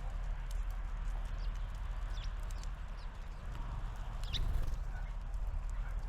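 Small birds giving a few short high calls, the clearest about two seconds in and just past four seconds, over a steady low outdoor rumble, with scattered light clicks.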